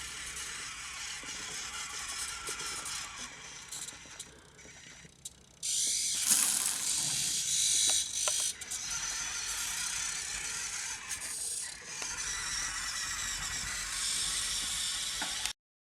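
Small electric motor and plastic gearbox of a Siku Control radio-controlled Mercedes-Benz model truck whirring, quieter and fading for a moment, then running louder from about six seconds in until it cuts off abruptly near the end.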